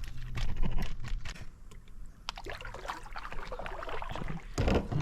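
Fishing gear being handled on a kayak: a fast run of clicks for about the first second, then scattered knocks and rattles.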